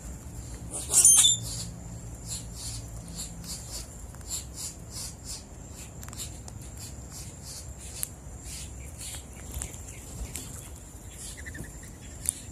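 Wild birds at a feeder calling: one loud, harsh call about a second in, then many short high chirps scattered irregularly. A thin, steady high-pitched drone runs underneath.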